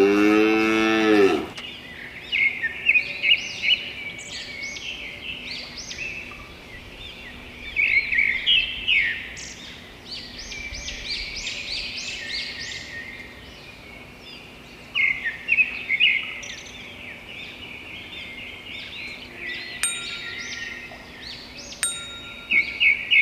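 A cow moos once, the call falling in pitch, followed by continuous chirping of many small birds.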